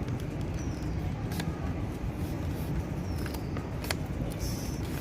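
Sheet of paper being folded and creased by hand, giving a few short crackles, over a steady low rumble.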